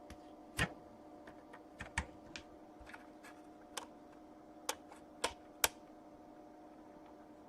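Scattered clicks of a computer keyboard and mouse, about ten irregular taps, over a faint steady electrical hum.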